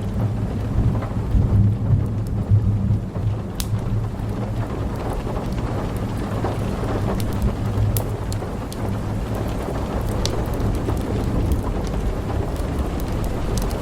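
Thunder rumbling low and continuously under steady rain, with a few sharp pops scattered through, like a crackling wood fire.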